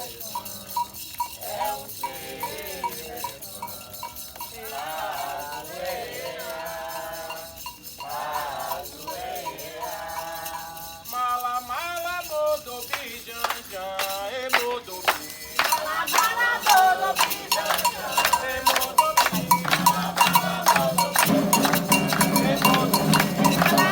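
Candomblé sacred chant: a single voice sings over light shaken percussion. About 16 seconds in, heavier percussion and more voices join and the music grows louder.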